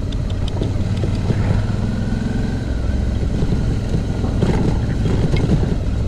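Suzuki V-Strom motorcycle engine running steadily while riding along a dirt road, with road and wind noise.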